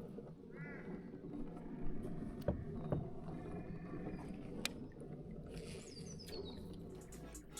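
Sounds from a pedal kayak on the water: a steady low wash of water and wind, broken by several sharp knocks. A few short bird calls come near the start and just past the middle.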